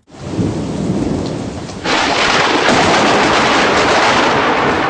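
A loud rushing noise that cuts in abruptly, rumbling low at first, then jumping about two seconds in to a harsher, louder hiss like heavy rain, played as 'the most annoying sound in the world'.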